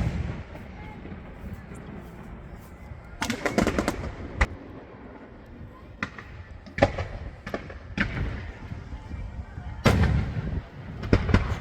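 Fireworks display going off: irregular sharp bangs and crackling bursts, some single and some in quick clusters, with quieter gaps between.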